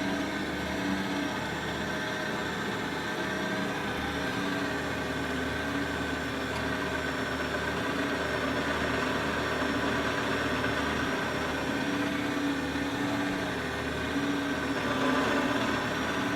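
Parkside bench pillar drill's electric motor running steadily with the bit spinning, a continuous hum.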